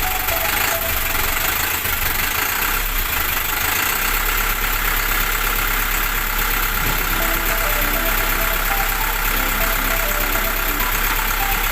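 A machine running steadily, with a low hum under a loud, even hiss.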